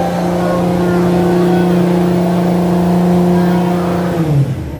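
A car engine held at steady revs with a strong, even note. The pitch sags slightly near the end before the sound cuts off suddenly.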